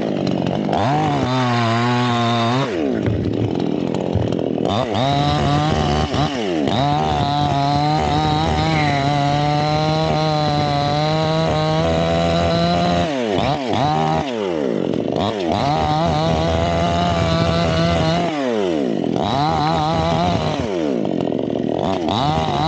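Chainsaw running at high revs while cutting the teak tree, its engine pitch dropping back and revving up again several times as the throttle is eased off and reapplied.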